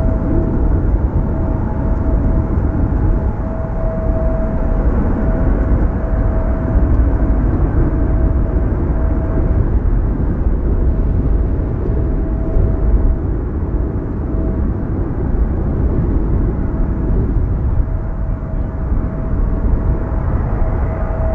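Steady jet airliner engine noise with a thin, steady whine that drops out now and then, over a low wind rumble on the microphone.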